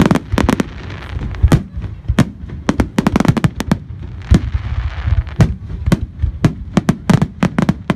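Fireworks display: a rapid barrage of aerial shell bursts and firecracker-like bangs, several a second, with crackling between the louder booms.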